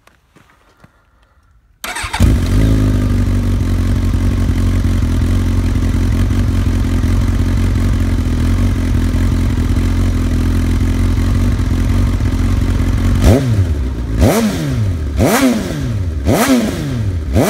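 Suzuki GSX-S1000 inline-four engine breathing through an Arrow full exhaust system: it starts about two seconds in and settles to a steady idle. Near the end the throttle is blipped about once a second, the revs rising and dropping back each time.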